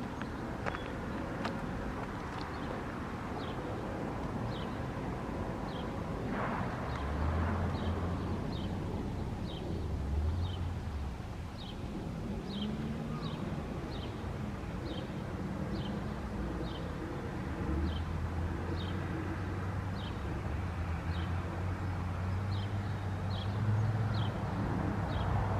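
Diesel locomotive engine running with a low rumble that swells twice. A faint, high tick repeats about every 0.7 seconds over it.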